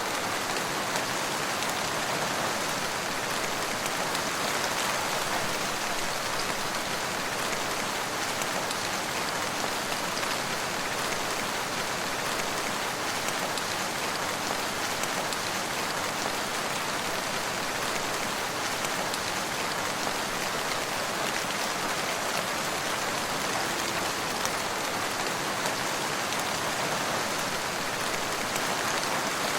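Steady rain falling on surfaces, an even hiss of drops without let-up or distinct events.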